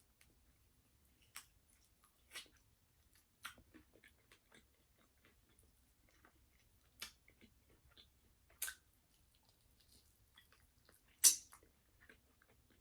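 A person chewing KFC fried food close to the microphone: scattered short crisp crunches between quiet stretches, the loudest about eleven seconds in.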